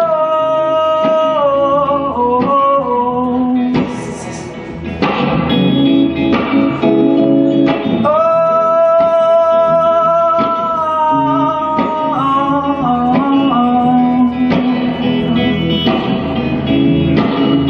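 Live band music: strummed guitar under a long held, wordless melody line that holds a note and then steps down in pitch, twice.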